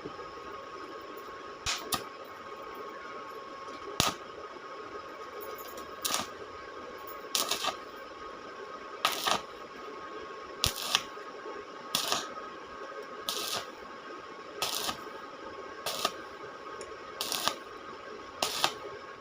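A regular series of short, sharp knocks, about one every second and a half, over a steady faint high hum.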